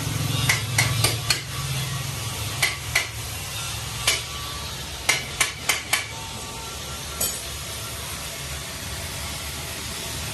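Hammer blows on metal: about a dozen sharp, slightly ringing knocks in short groups over the first seven seconds, over a steady low hum.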